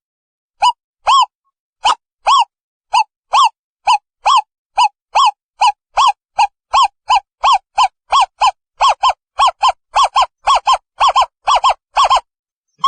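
Owl calling: a series of short, arched hoots on one pitch, speeding up from about two a second to about five a second, then stopping shortly before the end.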